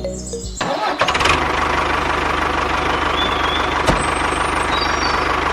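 A small motor-driven machine starts about half a second in, right as background music cuts off, and runs steadily with a fast, even rattle.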